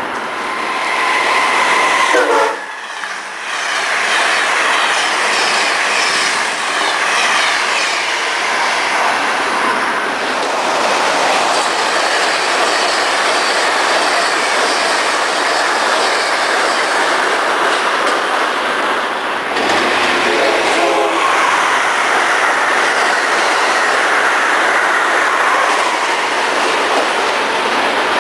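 Train passing at speed, a steady loud rush of wheels and rail noise with clicking over the rail joints. A horn sounds at the start and drops in pitch as the train goes by, and a short horn-like tone comes again near the end.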